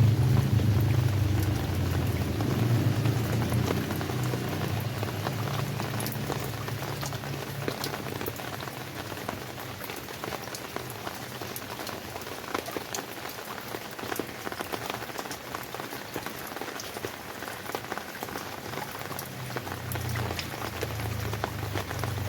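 Steady rain falling on a surface, with many individual drop strikes heard as sharp ticks through the hiss of the downpour. A low rumble underneath is strong at first, dies away over the first few seconds and returns near the end.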